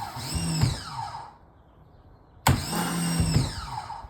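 Electric pressure washer motor cutting in and out in short bursts, each starting with a sharp click and a whine that sweeps in pitch. It stops about a second in, starts again after about a second's gap, and stops again near the end.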